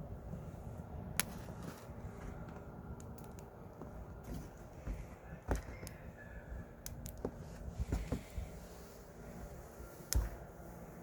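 Wood burning in a wood stove, crackling with scattered sharp pops, the loudest about ten seconds in.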